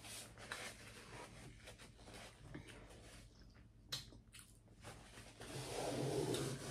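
A person chewing a mouthful of seafood boil, boiled egg and shrimp, with small wet clicks, a sharper click about four seconds in, and louder chewing near the end.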